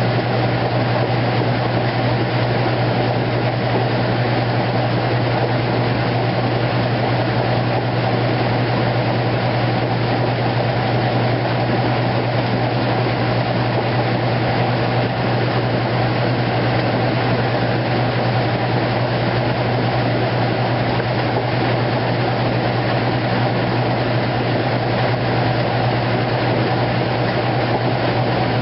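2008 Kenmore top-loading washing machine running on its heavy duty cycle: a steady low hum under an even wash of mechanical noise, with no change in level.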